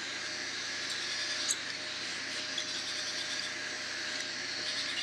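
Steady raspy chorus of baby cockatiels food-begging and screaming to be fed.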